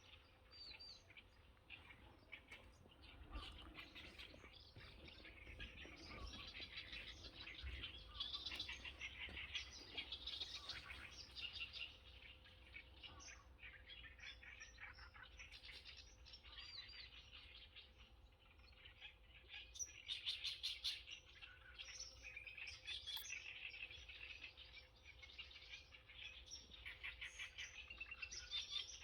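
A faint, continuous chorus of many small birds chirping and twittering, with short high calls overlapping throughout and busier stretches about a third of the way in and again past the middle.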